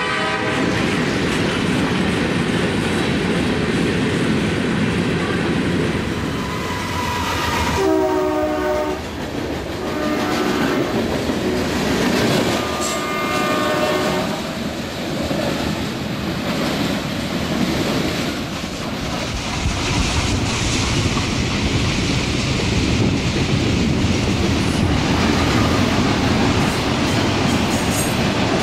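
Train running with a steady rumble and clatter of wheels, and a locomotive horn sounding three blasts about a third of the way in.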